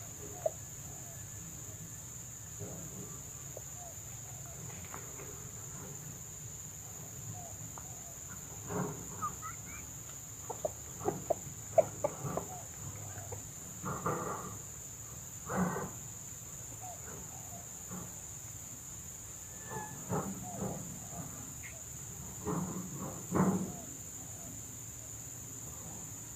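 Red junglefowl giving short clucking calls in scattered clusters, over a steady high insect hum.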